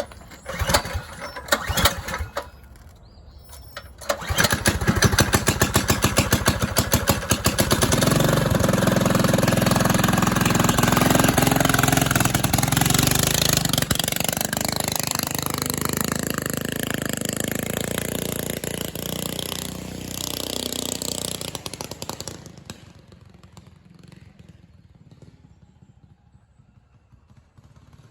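Predator single-cylinder engine on a vintage Fox mini bike starting: a few sharp bursts in the first two seconds, then the engine catches about four seconds in with a chugging idle. It revs up and runs hard as the bike pulls away, then fades into the distance after about twenty-two seconds.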